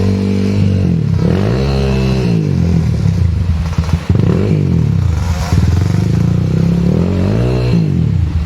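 Trail motorcycle engine revving up and down over and over, its pitch rising and falling about five times as the throttle is opened and closed.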